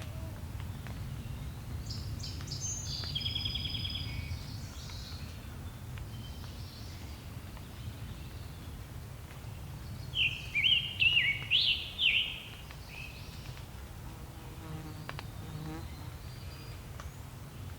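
Woodland songbirds singing: a high trilled song a couple of seconds in, then a quick run of short slurred phrases about ten seconds in, over a steady low rumble.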